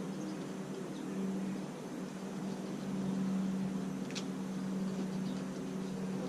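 A steady low mechanical hum that swells slightly in the middle, with faint high chirps and a single sharp click about four seconds in.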